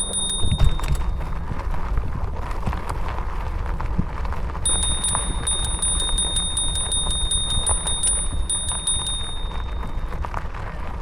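Bicycle freewheel ticking steadily with a high ringing tone while the bike coasts, in two spells: a brief one at the start and a longer one from about four and a half seconds in to near the end. A steady low rumble of wind and tyres runs underneath.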